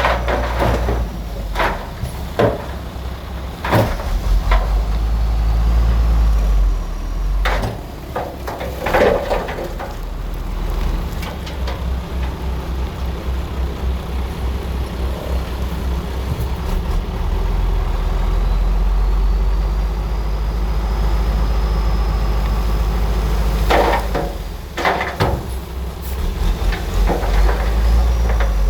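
Bulldozer's diesel engine running steadily under load, with repeated sharp metallic clanks and knocks from the machine at work, bunched near the start, about a third of the way in, and again near the end.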